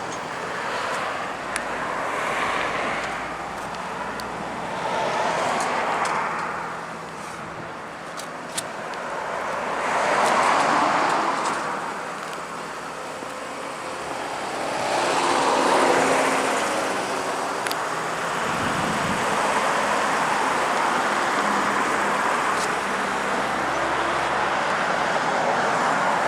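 Road traffic on a busy main road: several vehicles pass one after another, their tyre and engine noise swelling and fading, then the traffic noise continues steadily.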